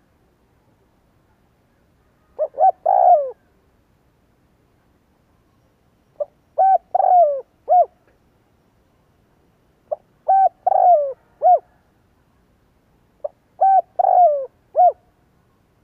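Spotted dove cooing: four song phrases of a short note followed by several longer coos that slide down at the end, about one phrase every three and a half seconds, with silence between. The first phrase starts about two seconds in and is shorter than the others.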